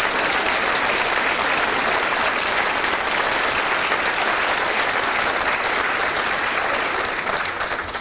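Audience applauding steadily, a dense patter of many hands clapping that dies away at the very end.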